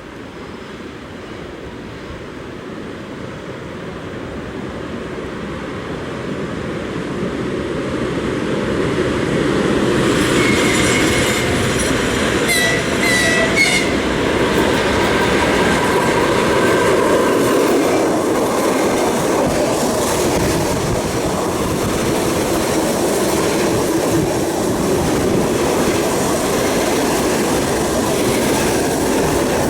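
A VL10 electric locomotive with a freight train and an ED2T electric multiple unit passing each other on adjacent tracks. The rumble builds for about ten seconds, a horn gives a few short blasts soon after, then the wheels clatter over the rail joints as the cars run by.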